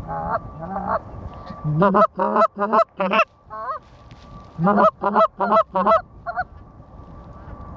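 Loud, close goose honks and clucks, each note breaking sharply upward in pitch, in two quick runs of about five notes, one run about two seconds in and the other around five seconds in. A faint steady high tone sounds underneath.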